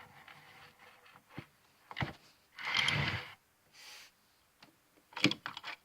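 Handling noise from a small brass model locomotive being turned over in the hands: a few sharp clicks and a brief scrape or rustle about three seconds in.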